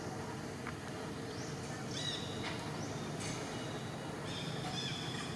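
A few short, high-pitched animal chirps over a steady outdoor background noise, about two seconds in and again near the end.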